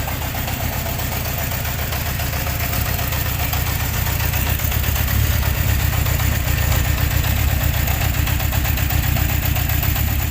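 1972 Honda CB750 K2's air-cooled inline-four engine idling steadily with an even, rapid exhaust pulse, getting a little louder about halfway through.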